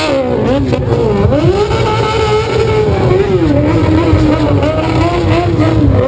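Honda XRE 300's single-cylinder engine running under way, its pitch rising and falling several times with the throttle, over a dense low rumble.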